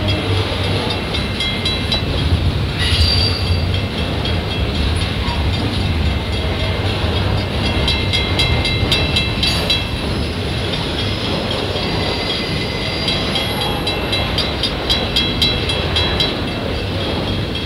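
Freight train cars rolling slowly over a level crossing: a steady low rumble of steel wheels on rail. High squealing tones and bunches of clicks come and go, about 3 s in, again around 8 to 10 s, and near the end.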